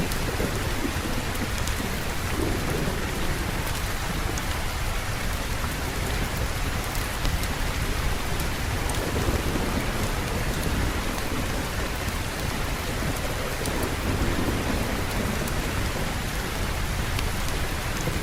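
Steady rainfall with a low, continuous thunder rumble underneath.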